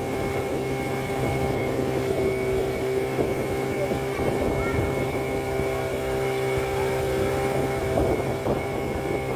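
A motor running steadily at an even pitch, a constant hum with a thin high whine on top.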